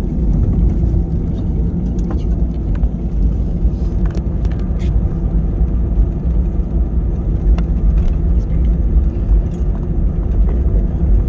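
Airbus A320 heard from inside the cabin at takeoff: a steady low roar of the engines and rushing air, with scattered light clicks and rattles.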